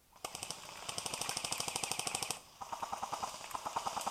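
Airsoft electric guns (AEGs) firing on full auto: two long bursts of rapid, evenly spaced shots with a brief pause between them.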